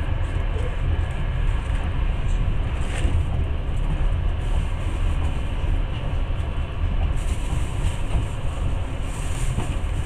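Passenger train running along the track: a steady, even rumble of the carriage's wheels on the rails, heard from inside the carriage at the window.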